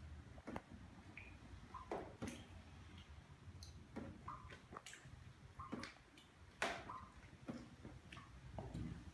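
Water dripping irregularly through a leaking roof: scattered sharp drops, several with a short ringing note.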